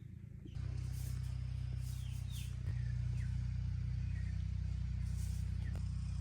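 A motor running with a steady low hum that starts suddenly about half a second in and gets a little louder midway. A few short, falling bird chirps sound over it.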